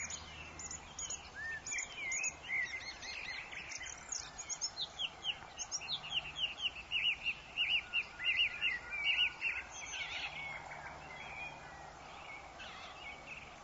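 Several forest birds chirping and calling over a soft background hiss, with a fast run of short repeated notes in the middle that thins out towards the end.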